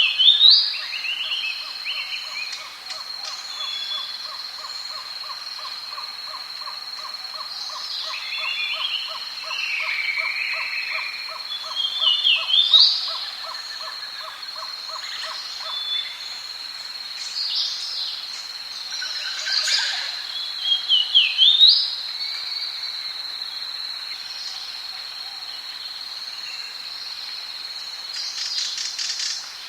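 Tropical rainforest ambience: a steady high insect drone, with birds giving repeated short, swooping calls that come loudest in a few bouts. Under these, a fast even pulsing call runs through the first half.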